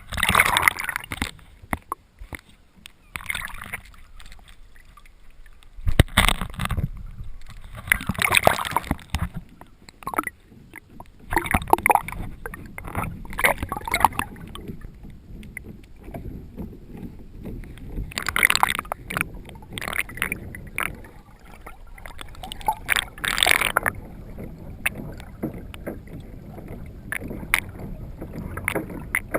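Water splashing and sloshing around a Hobie Revolution pedal kayak on the sea, coming in irregular surges every few seconds over a steady low wash.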